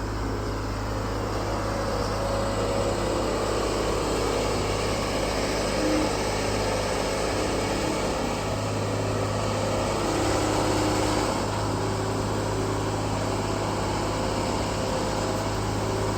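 Excavator engine running steadily under hydraulic load while the machine lifts and swings a stump held in slings, its tone shifting slightly as it works.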